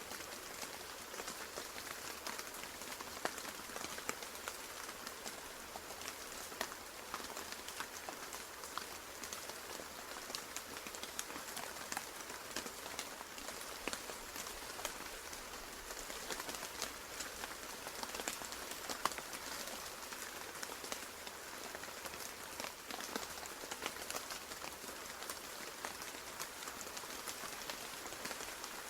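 Steady rain falling on a surface, with many separate drop impacts ticking through the hiss.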